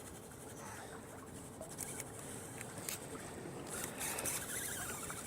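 Steady water and ambient noise around a kayak on the river, with a few short ticks scattered through the middle.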